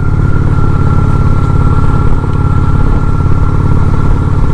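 Honda Shadow 750 ACE's V-twin engine running steadily while the motorcycle cruises along, purring and sounding healthy. A thin, steady high tone sits above the engine.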